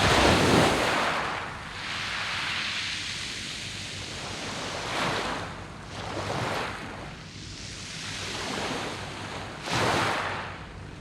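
Sea waves breaking on a beach of smooth round pebbles, each surge washing in with a hiss of water over stones. The biggest surge comes right at the start, smaller ones about halfway, and another strong one near the end.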